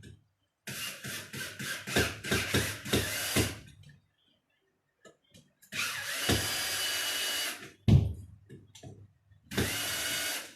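Electric drill boring through a wall in several short runs: a stuttering first run, a steady run of about two seconds, and a last brief run. A heavy thump, the loudest sound here, falls between the last two runs.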